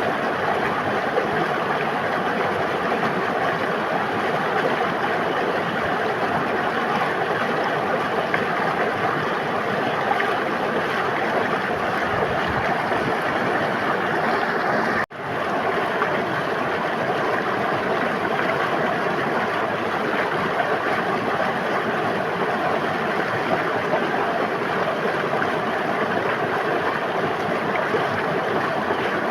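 River water rushing and babbling in a steady wash of noise. About halfway through, the sound cuts out for an instant and fades quickly back in.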